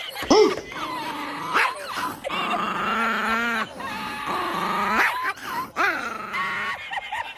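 A dog vocalizing: a sharp yelp just after the start, then long wavering whining cries through the middle.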